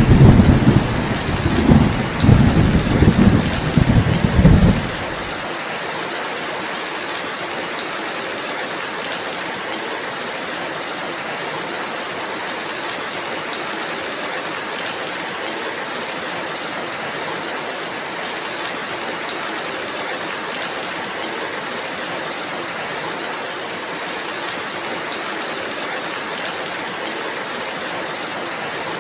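Steady rainfall with a rumble of thunder at the start, the loudest sound, that rolls on for about five seconds and then stops abruptly, leaving only the even hiss of the rain.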